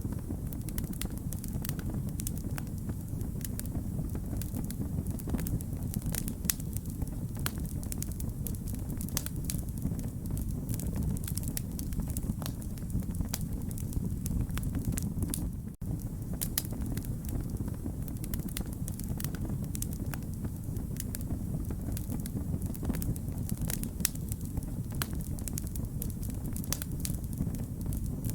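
Wood fire crackling: a steady low rumble of burning with frequent sharp pops and snaps scattered throughout. The sound drops out for a split second about halfway through.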